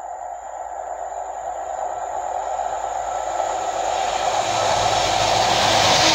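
A Class 43 HST power car and its train approaching at speed and passing close. The diesel engine and wheel-on-rail noise grow steadily louder, loudest at the end as the power car goes by.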